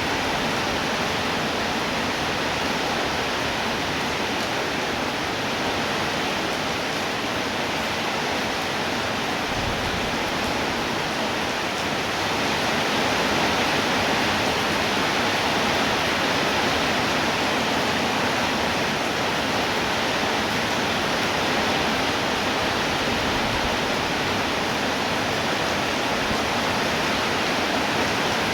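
Rain falling steadily: a dense, even hiss that grows slightly louder a little before halfway through.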